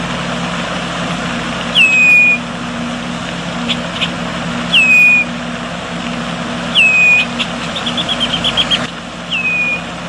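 A bird calling: a clear whistle that drops sharply and then holds briefly, repeated four times every two to three seconds, with a quick run of about a dozen short notes near the end, over a steady background hiss and low hum.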